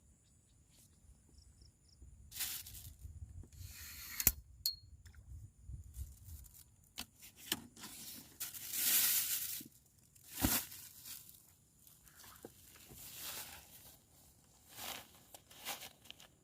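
Irregular rustling and crinkling, in uneven bursts, with a sharp knock about four seconds in and another about ten and a half seconds in.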